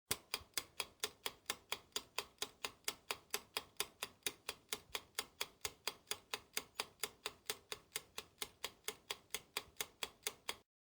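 Clock-style ticking sound effect, an even run of sharp ticks at about four to five a second, of the kind used as a countdown timer. It starts and cuts off abruptly.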